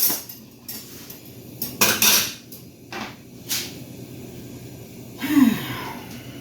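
Kitchen utensils clattering against dishes and a pot while food is mixed, with several sharp knocks and clinks: near the start, about two seconds in, three and a half seconds in, and a louder one about five seconds in.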